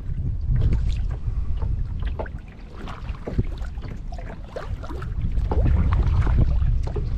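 Kayak paddling: water splashing and dripping off the paddle in irregular little splashes, with wind rumbling on the microphone.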